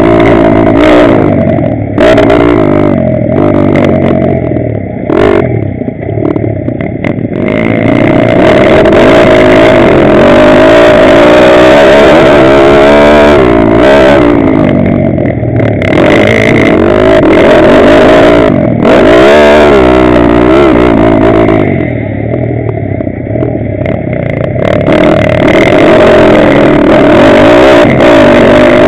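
Pitsterpro 160cc pit bike's single-cylinder four-stroke engine revving hard, its pitch climbing and dropping again and again as the throttle is worked and the gears change. The engine eases off a few seconds in and again a little past the middle, with wind and clatter from the bike under way.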